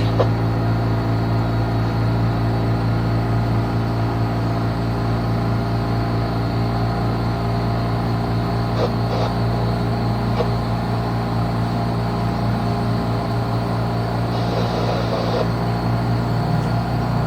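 A sailboat's engine running steadily at a constant speed, heard on board with an even low hum.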